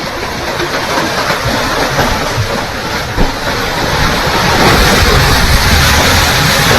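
A loud, steady rushing roar that grows louder about four and a half seconds in.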